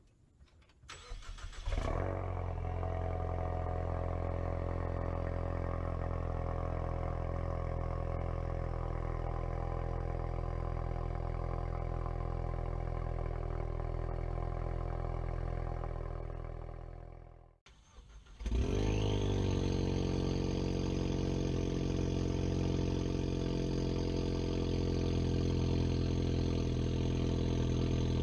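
Ford Mustang EcoBoost's turbocharged 2.3-litre four-cylinder cold-starting through a straight-piped catless downpipe: it cranks about a second in, catches, and settles into a loud, steady idle. About 16 seconds in the sound dies away to almost nothing, then comes back abruptly a second later with a rising whine and runs steadily again.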